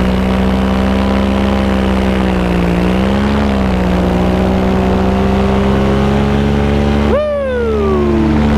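Paramotor engine and propeller running steadily in flight, its pitch wavering briefly about three seconds in. Near the end a separate high tone jumps up and slides down over about a second.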